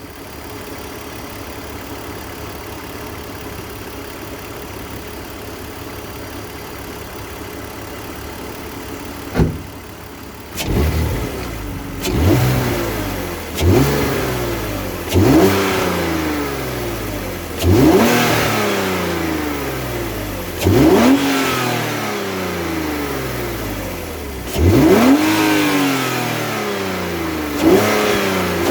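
BMW M54B30 3.0-litre straight-six, stock apart from a K&N panel air filter, idling steadily for about nine seconds, then revved in a series of sharp throttle blips, about eight or nine, each rising quickly and falling back slowly toward idle.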